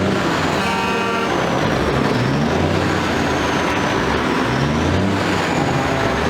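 Big trucks' engines running, their pitch rising and falling, with a short horn blast about a second in.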